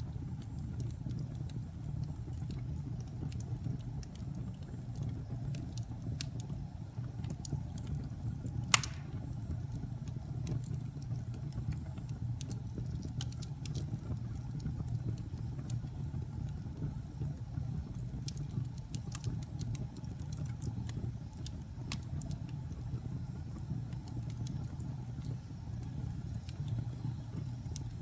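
Wood fire burning in a fireplace: a steady low rumble of flames with scattered small crackles and one sharp pop about nine seconds in.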